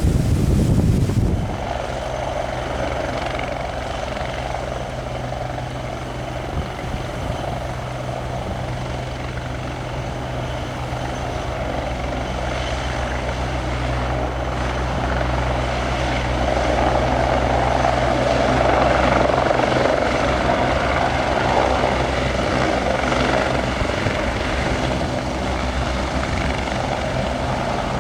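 Bell 430 twin-turbine helicopter running: a steady low rotor and engine hum with a higher whine band, growing louder about two-thirds of the way through and easing slightly near the end. For the first second or so there is only wind buffeting on the microphone, which cuts off abruptly.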